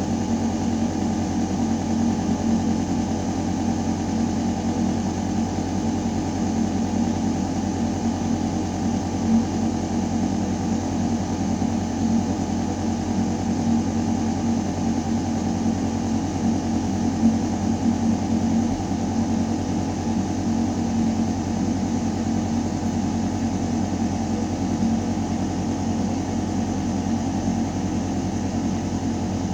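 Building ventilation system running in an air shaft: a steady mechanical hum made of a few held low tones over the hiss of air moving through ductwork.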